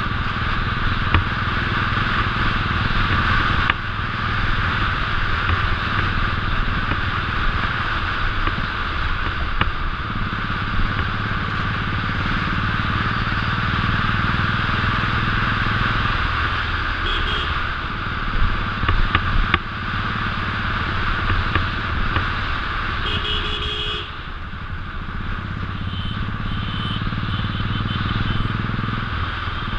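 Royal Enfield 500cc single-cylinder engine running steadily under way, with heavy wind and road noise on the mounted camera. A couple of short, high tonal beeps cut through about two thirds of the way in.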